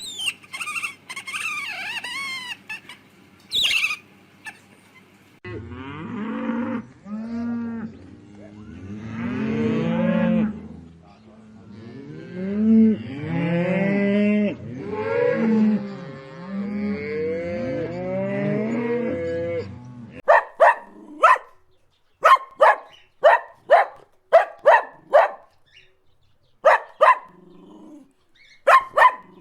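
Cattle mooing: a series of long, low moos, one after another, through the middle of the stretch. It opens with a few seconds of high, squeaky calls and ends with a quick run of short, sharp barking calls.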